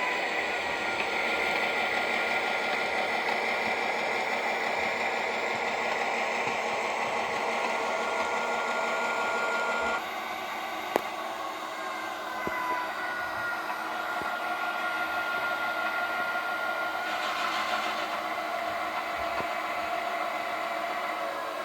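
Model train running on track: a steady whir of the locomotive motor and wheels, with thin squealing tones that slide slowly in pitch. A sharp click comes about eleven seconds in.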